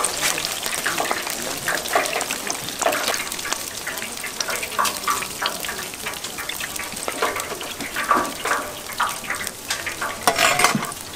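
Food frying in hot oil: a steady sizzle, broken by scattered clicks and knocks of utensils.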